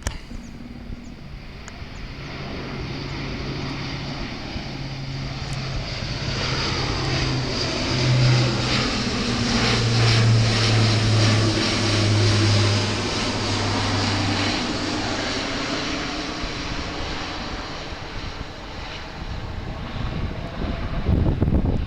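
Airbus A400M Atlas's four turboprop engines as the aircraft passes by: the sound builds, is loudest about halfway through, then fades, while the low propeller hum drops in pitch as it goes past.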